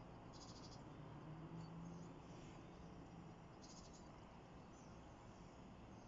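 Faint high-pitched bird trills: two short rapid bursts about three seconds apart, with a few soft chirps between, over a faint low steady hum.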